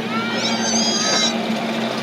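Steady running hum of a safari ride train. A brief high-pitched squeal comes about half a second in and lasts about a second.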